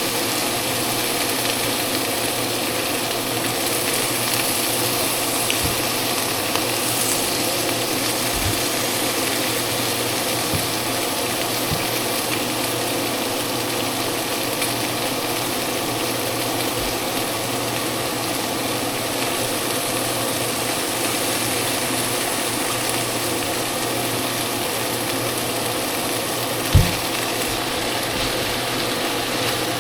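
Food sizzling steadily in a frying pan, with a few short low knocks, the loudest near the end.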